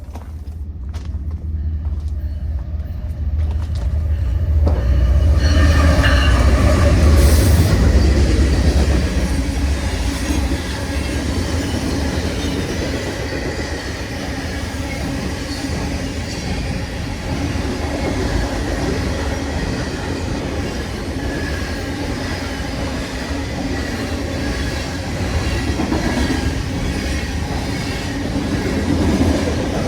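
Freight train rolling past. A low rumble builds over the first few seconds into a steady noise of wheels on rail, with faint wheel squeal and clicks over the joints.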